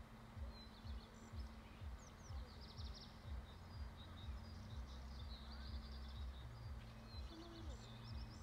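Small birds chirping faintly over a low hum, with soft low thuds repeating about twice a second.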